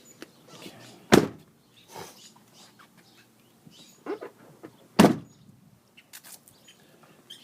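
Two doors of a Ford F350 Super Crew pickup shutting, each with one solid thunk, about four seconds apart. Lighter clicks and knocks come between them.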